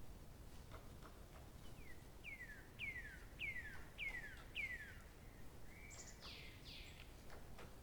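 A songbird singing a run of about six clear notes, each falling in pitch, roughly two a second, followed about a second later by a couple of harsher, broader falling notes. Faint scattered ticks sound throughout.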